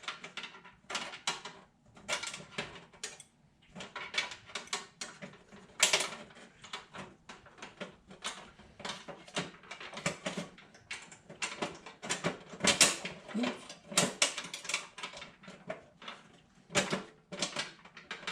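Irregular metallic clicks, clinks and knocks of nuts, bolts and sheet-metal panels being handled and fitted loosely by hand.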